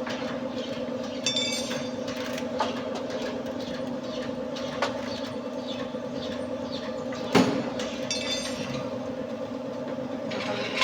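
A steady mechanical hum from a running machine, with a few sharp metallic clinks of hand tools on brake parts, the loudest about seven seconds in.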